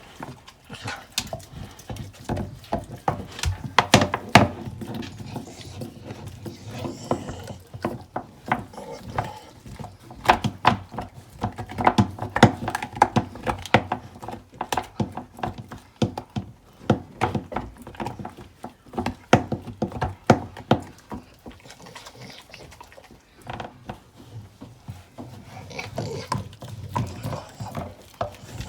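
American Bully dog crunching and gnawing on a raw deer bone: a dense, irregular run of sharp cracks and crunches with wet chewing between them.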